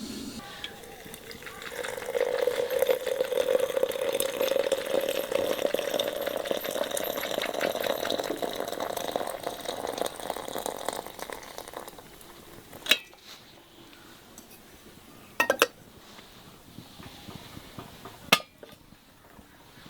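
Liquid splashing in a pot or bowl for about ten seconds, then three sharp clinks of dishes spaced a few seconds apart.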